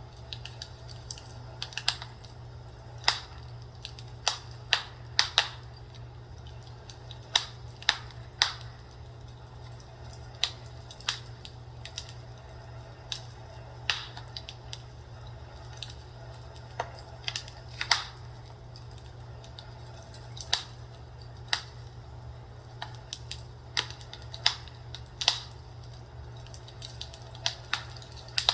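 Fireplace fire crackling: irregular sharp pops and snaps at uneven intervals, roughly one or two a second, over a steady low hum.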